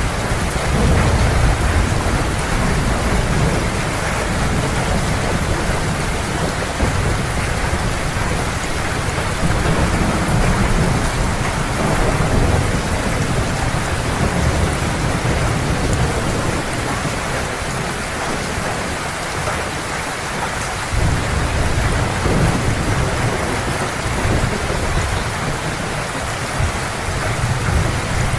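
Heavy rain falling steadily, with low rumbling thunder that rolls in and out, easing for a few seconds past the middle and building again after.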